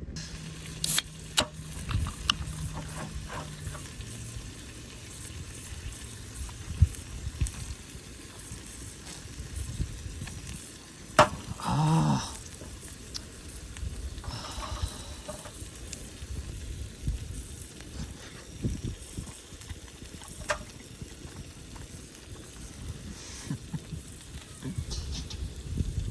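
Food sizzling in a frying pan, with scattered clicks and knocks. A sharp knock comes about eleven seconds in, followed by a brief pitched sound.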